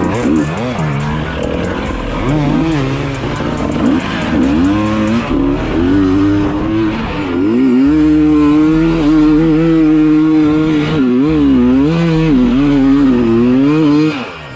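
Dirt bike engine revving up and down while riding off-road, its pitch rising and falling repeatedly and holding high for a second or two at a time. It drops away sharply near the end.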